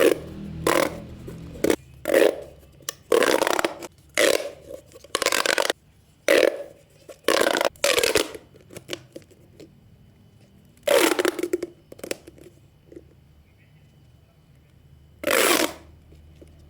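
Plastic pop tubes being pulled out and pushed back, the ribbed sections clicking through in quick rattling, burp-like pops. About a dozen pops come in fast succession at first, then two more spaced a few seconds apart.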